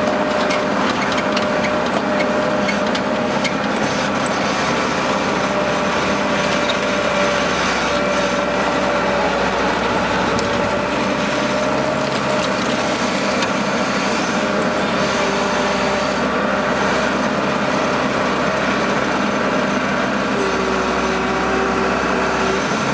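Case skid steer loader's diesel engine running steadily, with a high whine whose pitch drifts a little. Scattered clicks and knocks come through in the first few seconds.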